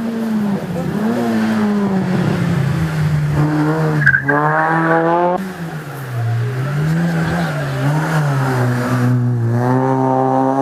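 A hill-climb racing car's engine revving hard under acceleration. The pitch climbs, drops suddenly about five seconds in, rises and falls through the bends, dips again near the end and climbs once more.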